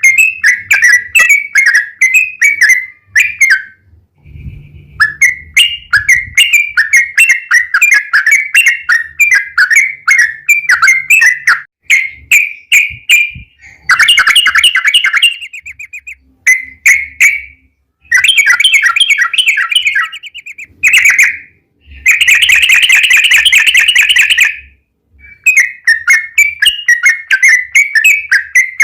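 Yellow-vented bulbul (trucukan) song: long, rapid runs of repeated bubbly notes, in bursts broken by short pauses.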